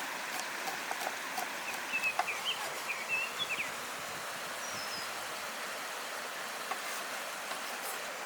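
Steady outdoor background hiss with a bird chirping a quick series of short, high notes about two seconds in. A few faint light taps sound early on.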